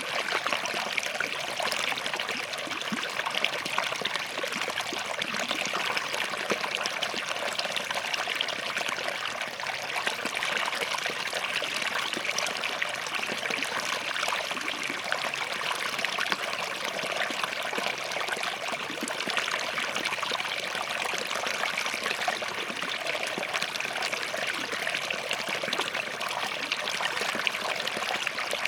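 Small forest stream running steadily over and between rocks, a continuous gentle babble and trickle of water.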